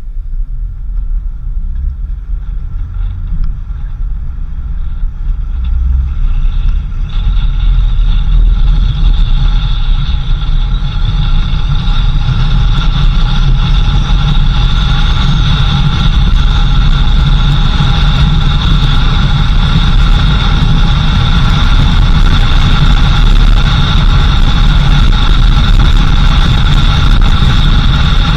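Car driving, its engine and road rumble steady, getting louder about seven seconds in and then holding, with a steady high whine over it.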